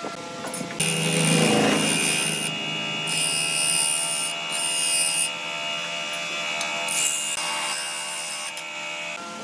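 Electric power tool working wood. It starts about a second in, and its high cutting hiss comes and goes as it bites, before it stops just before the end.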